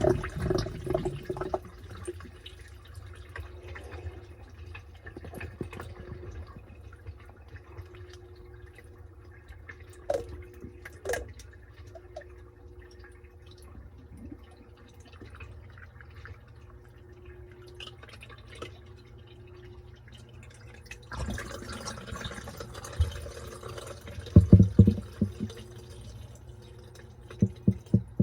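Top-loading washing machine with water running into the tub, the flow dying away in the first couple of seconds. Then there are scattered drips and clicks over a low hum. About 21 seconds in the water starts rushing again, with a few loud thuds near the end.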